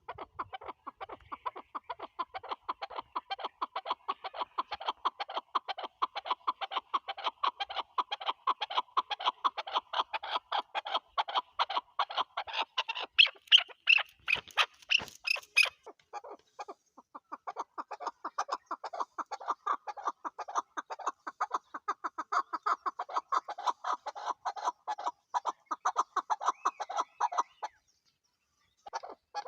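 Chukar partridge calling: a long, fast run of clucking notes, about five a second, louder in the middle with a sharp click among them, cutting off abruptly near the end.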